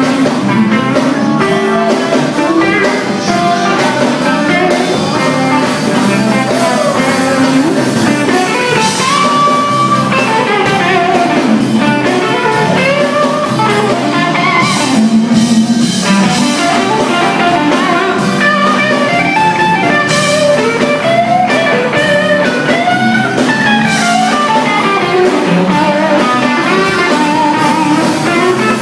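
Live blues band playing an instrumental passage, a guitar carrying a lead line with bent notes over drums.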